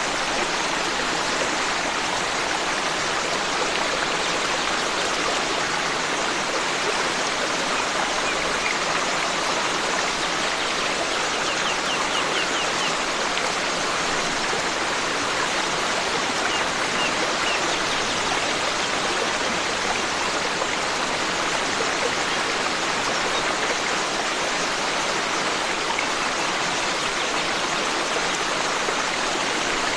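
Forest stream rushing steadily over rocks, with a few faint, brief bird chirps about a third of the way in and again a little past halfway.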